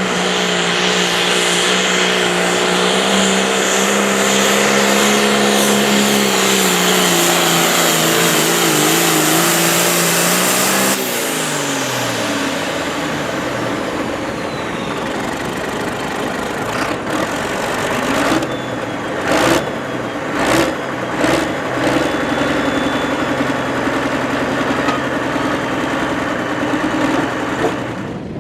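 A 9,500-pound hot farm class pulling tractor's engine running hard at full throttle under load, its pitch wavering toward the end of the pull, then cut back sharply about eleven seconds in and winding down. It then runs at a lower speed with a few short throttle blips.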